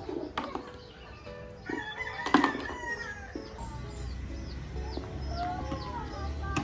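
A rooster crowing about two seconds in, with small birds chirping throughout the latter half and a few sharp knocks.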